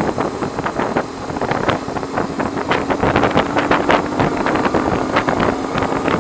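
Heavy wind buffeting on the microphone of a BMW R1100R boxer-twin motorcycle at road speed, with a steady engine hum faintly underneath from about halfway in. The rider blames the wind noise on the motorcycle's screen.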